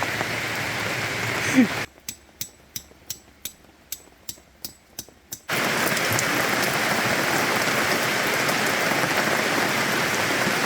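Steady heavy rain hiss. About two seconds in it gives way to a quieter stretch of about a dozen single drips at uneven intervals, and the full rain sound comes back about three and a half seconds later.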